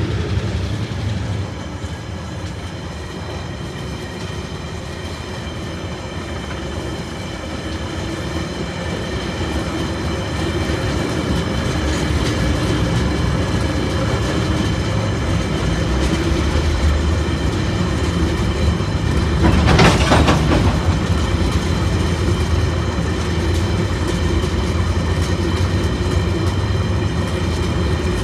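Empty ore wagons of a freight train rolling past, their wheels clattering steadily on the rails. A louder burst of clatter comes about twenty seconds in.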